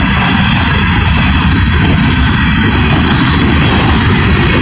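Freight train cars rolling past on the rails, a loud, steady rolling noise with no breaks.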